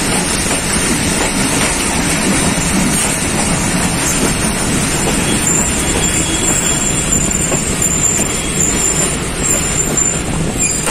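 Passenger train coach running along the track, heard from its window: a loud, steady rumble of wheels on rails with rushing air. About halfway through, a thin, high metallic squeal from the wheels joins in and holds until near the end.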